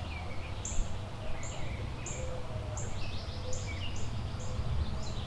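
Several woodland birds singing: one repeats short, very high thin notes about twice a second, and another gives a fast trill about three seconds in. Steady low wind rumble runs underneath.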